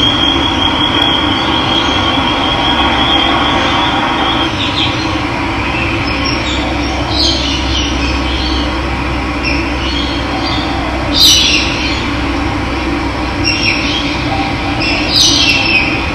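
Steady rush of running water, with a high thin tone held for the first few seconds and short bird calls several times later on.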